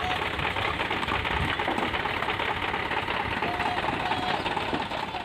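A dump truck's diesel engine running steadily with a fast, even clatter.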